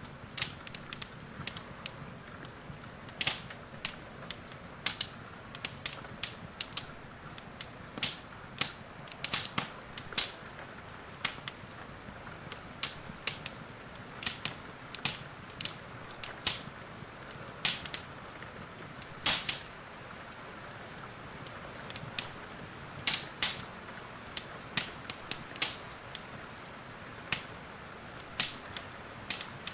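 Wood fire crackling in a fireplace: irregular sharp pops and snaps, sometimes several a second, over a soft steady hiss of rain.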